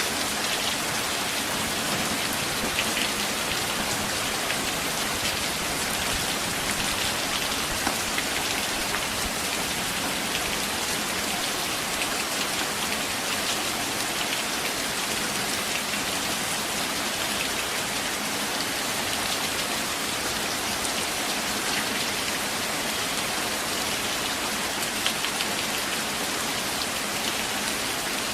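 Steady rain falling on forest leaves and ground, an even hiss with scattered small drop ticks.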